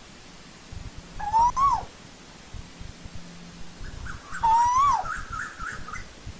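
Asian koel calling: two whistled notes about three seconds apart, each rising and then dropping off at the end, the second followed by a quick run of short higher notes.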